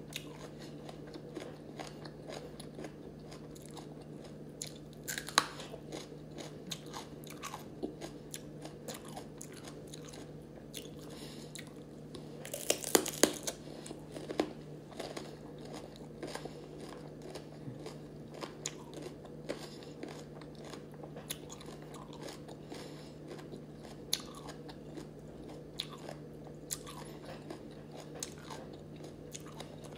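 Raw bitter melon (ampalaya) being bitten and chewed: crisp, wet crunches with scattered small clicks, and a burst of louder crunching about halfway through.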